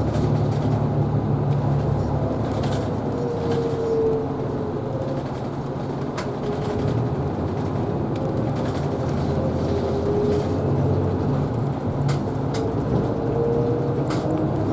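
Isuzu Erga Hybrid city bus driving, heard from inside the cabin: a steady low drive drone with a whine that rises and falls in pitch several times as the bus speeds up and slows.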